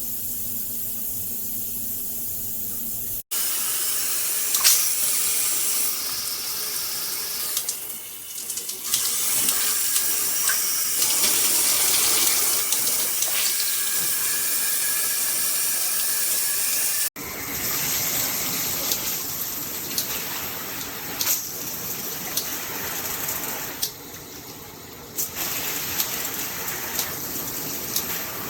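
Water spraying from a handheld shower head, a steady rushing hiss of spray and splashing. It breaks off abruptly twice, about three seconds in and again past the middle, each time resuming with a slightly different sound.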